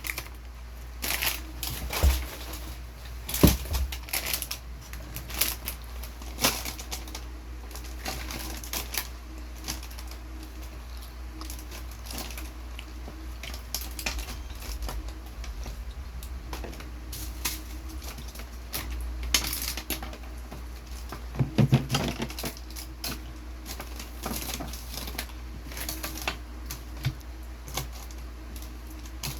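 Wrapped candy being scooped and moved by hand, a steady patter of small clicks and crinkles, with a few louder knocks about two and three seconds in and again near twenty-two seconds.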